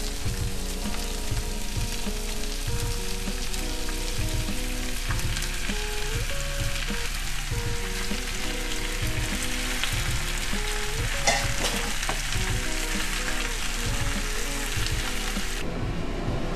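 Shrimp, bell peppers and onions sizzling in a frying pan as they are stirred with a wooden spoon, with one sharp knock about eleven seconds in. The sizzle drops away abruptly near the end.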